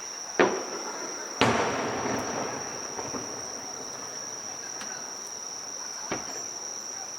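Fireworks shells bursting: a sharp bang about half a second in, a louder bang about a second and a half in with a drawn-out tail, and a fainter bang near the end. Steady high-pitched insect song (crickets) runs underneath.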